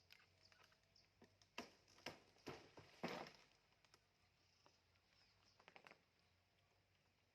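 Faint, irregular taps and knocks, a few scattered single strikes with the loudest a little after three seconds and a quick run of small clicks near six seconds.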